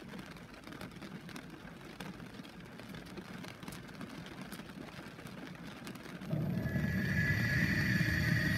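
Light rain tapping on window glass: scattered drops ticking over a faint steady hiss. About six seconds in, music starts suddenly and becomes the loudest sound.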